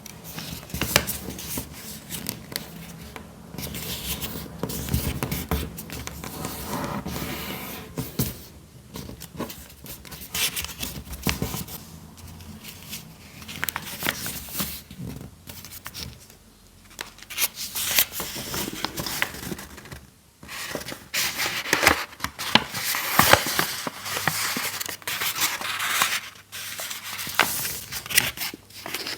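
Close-up paper handling while building a paper dinosaur: paper rustling, scraping and crinkling, with many sharp snips and clicks. The sounds grow louder and busier about two-thirds of the way through.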